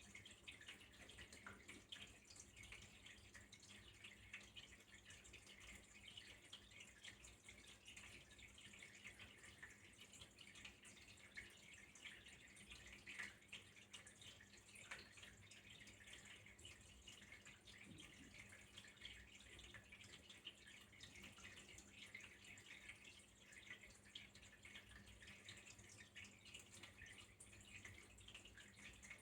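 Faint, steady trickle of running water with fine dripping and splashing, unchanging throughout.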